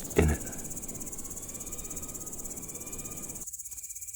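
Grasshopper buzzing: a steady, rapid, high-pitched pulsing trill. A brief low thump sounds just after it starts.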